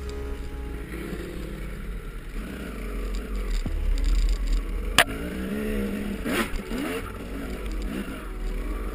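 Dirt bike engine revving up and down, with a single sharp crack about five seconds in.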